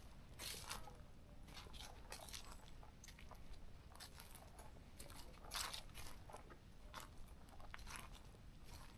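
Footsteps crunching faintly on the forest floor at a walking pace, in short, irregular crunches.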